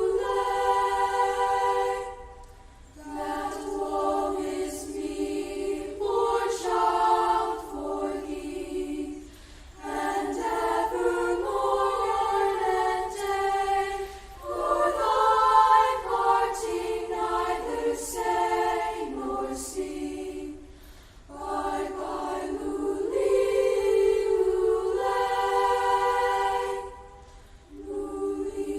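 A choir singing a cappella in long held phrases, pausing briefly for breath every few seconds.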